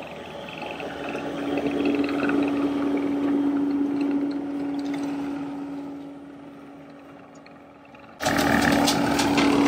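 Skid steer running a Coneteks hydraulic ground-leveling attachment with a forestry rotor head: a steady machine drone at one pitch that swells and then fades. About eight seconds in it turns abruptly louder and busier, with crackling.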